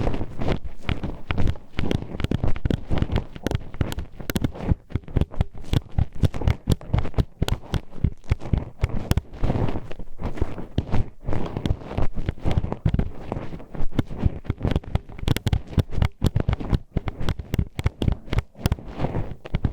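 Metal hairpin poking and scraping inside the ear of a binaural ASMR microphone: close, dense, irregular clicks and clacks several times a second.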